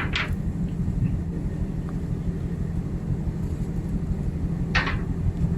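Steady low hum of a ship's running machinery, with two short hissing bursts, one at the start and one about five seconds in.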